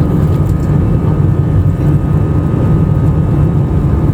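Airliner cabin noise: the steady low rumble of the jet engines and airflow heard from inside the cabin, with a faint steady whine above it.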